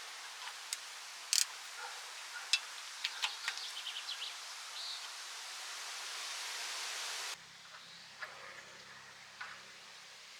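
Scattered sharp clicks and light metal taps of hand-tool work over a steady hiss. About seven seconds in the hiss stops abruptly and a faint low hum remains, with a few more soft knocks.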